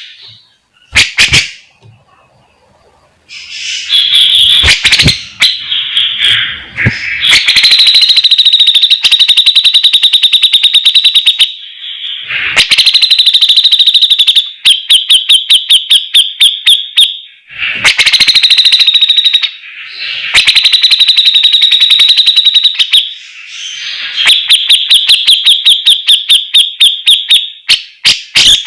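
Cucak jenggot (brown-cheeked bulbul) singing loudly. After a few short calls in the first seconds, it gives a series of long phrases of fast, rapidly repeated high notes, each a few seconds long, separated by brief pauses.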